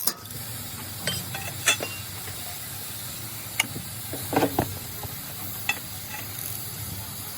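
Steady hissing background noise with a few sharp clinks and knocks scattered through it, the loudest about one and a half seconds in and again past the middle.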